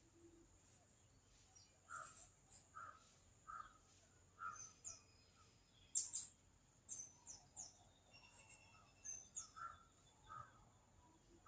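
Faint outdoor ambience: a steady high insect drone, with a bird repeating short calls about once a second, scattered higher chirps, and one sharp click about six seconds in.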